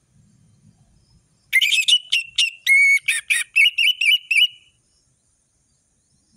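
Orange-headed thrush (anis merah) singing one loud, varied phrase of sharp whistles and rapid chattering notes. It starts about a second and a half in, lasts about three seconds and ends on a short held whistle.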